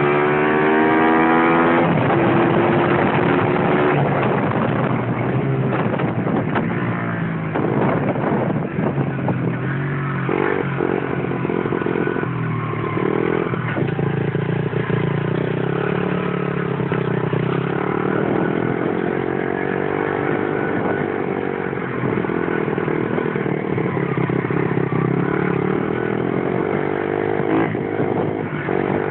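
KC 70 pit bike engine at full throttle, its note rising over the first couple of seconds and then holding steady at high revs as the bike runs up the road.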